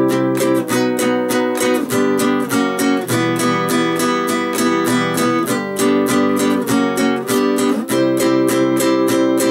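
Acoustic guitar strummed in steady, even down-up strokes through a chord progression (the intro's Em, G, F#, G, C, B), the chord changing every second or two.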